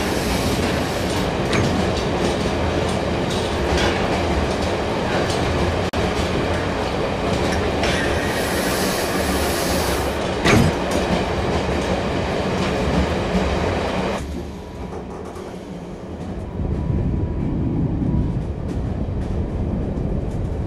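Passenger train running, heard from inside the carriage: a steady rumble of the wheels on the rails with scattered knocks. About fourteen seconds in the hissing top of the sound drops away, leaving a quieter low rumble.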